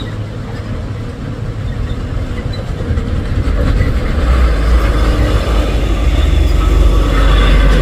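A truck's diesel engine pulling up the climb, growing steadily louder as it draws nearer.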